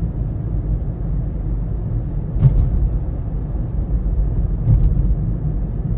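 Steady low rumble of road and engine noise inside a moving car's cabin, with two brief knocks, one about two and a half seconds in and one near five seconds.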